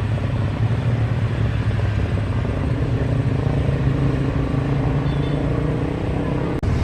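Aircraft engines running with a steady low rumble, briefly cutting out near the end.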